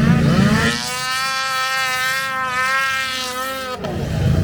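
A small high-revving vehicle engine climbs in pitch over the first second, then holds a steady high buzzing whine at high revs before stopping suddenly near the end.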